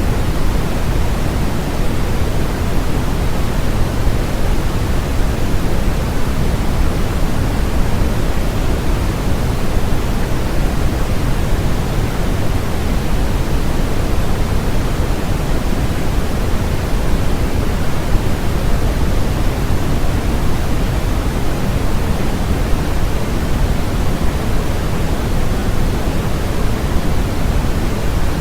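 Steady, unchanging synthetic noise sold as white noise, a constant hiss with its weight in the low end.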